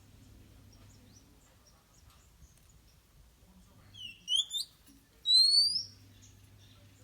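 Oriental magpie-robin calling: faint soft chirps, then about four seconds in a quick run of three short rising notes and one longer, louder rising whistle. A faint low steady hum runs underneath.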